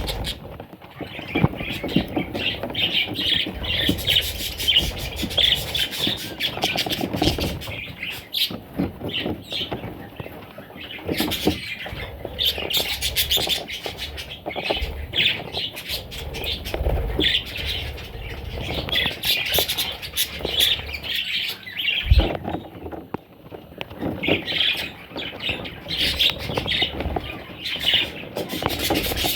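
Budgerigar chicks calling in raspy, repeated chirps that come in bursts with short pauses, with a few knocks along the way.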